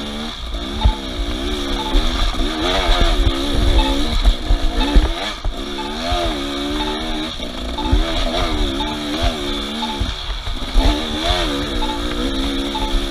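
Off-road vehicle engine revving up and dropping back again and again, about once a second, with a low rumble underneath.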